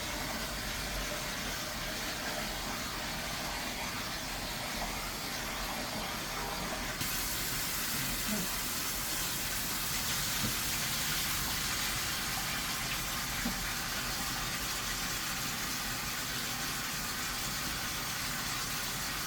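Steady hissing noise in a kitchen, getting brighter and fuller about seven seconds in.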